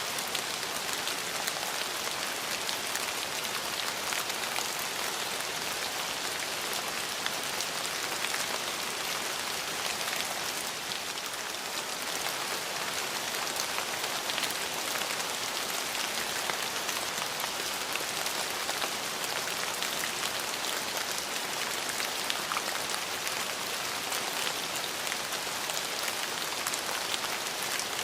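Steady rain falling, an even hiss peppered with many small drop ticks.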